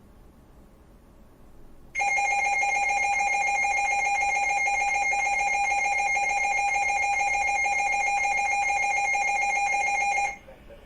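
Weather radio warning alarm tone: a loud, steady alert tone that starts about two seconds in, holds for about eight seconds and cuts off near the end. It signals that a warning is being broadcast and sets off tone-alert weather radio receivers.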